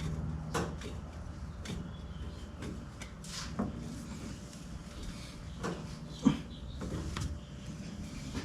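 Scattered light knocks and clicks of hand work on the oil filter, tightened from above in the engine bay of a 1965 Ford Mustang, with one sharper click about six seconds in.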